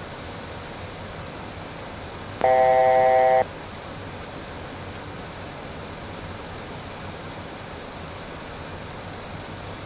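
Steady rushing hiss of the Beechcraft Premier I jet's cockpit in flight. A couple of seconds in, a single electronic cockpit alert tone of several pitches sounds for about a second, louder than the hiss.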